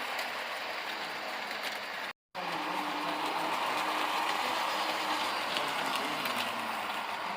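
A train running through the station: steady rail and wheel noise with scattered sharp clicks, louder after a break about two seconds in.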